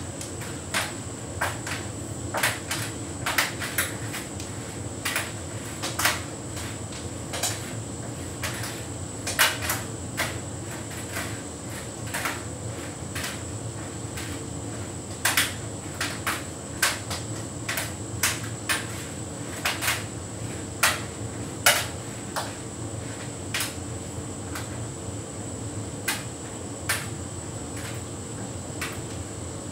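Hotpoint heat pump tumble dryer running a synthetics cycle: a steady hum from the machine, with irregular clicks and knocks as the load tumbles in the drum, thinning out near the end.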